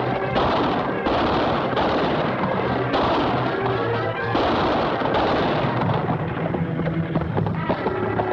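A run of gunshots, roughly one a second, each shot's echo filling the gap to the next, over dramatic orchestral music.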